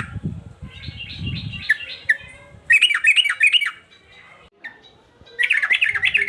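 Male yellow-vented bulbul (trucukan) singing excitedly: three bursts of rapid, chattering, swooping notes, each about a second long, with short pauses between them.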